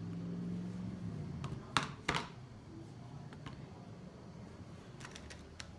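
Makeup handling: an eyeshadow palette and brush give two sharp clicks about two seconds in, then a few faint ticks, over a low steady hum that fades after the first second.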